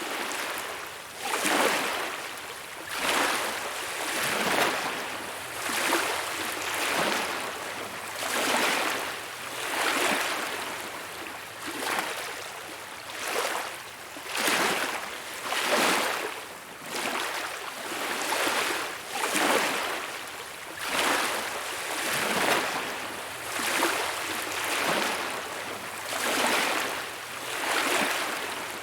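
Small waves washing in on a beach, each swell of hissing surf rising and falling about every one and a half seconds.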